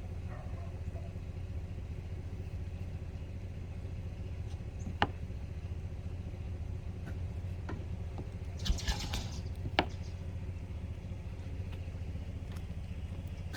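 A vehicle engine idling with a steady low hum, with a sharp click about five seconds in and a short burst of clicks and rattling around nine seconds in, followed by one more click.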